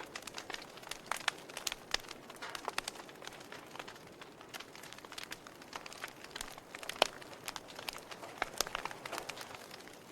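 Wood fire in a fireplace crackling: irregular sharp pops and snaps over a soft steady hiss, with one louder pop about seven seconds in.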